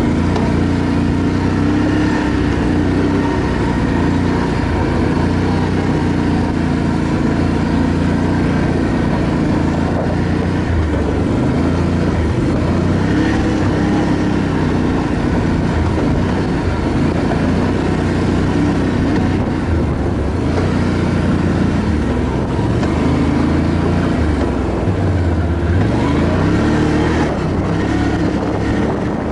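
ATV engine running under way, its pitch rising and falling as the throttle is worked, with no break.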